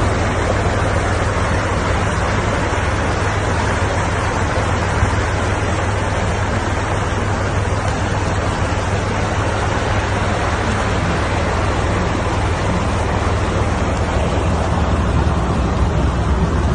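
Fast-flowing floodwater rushing steadily, with a deep rumble underneath.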